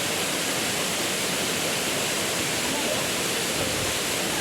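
Waterfall and stream water rushing in a steady, even roar of white water.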